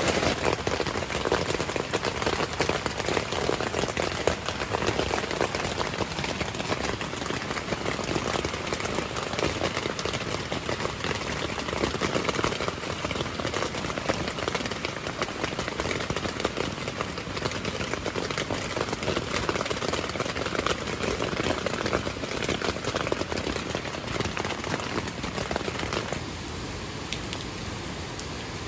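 Heavy rain falling steadily, a dense hiss of many drops striking surfaces; it turns quieter near the end.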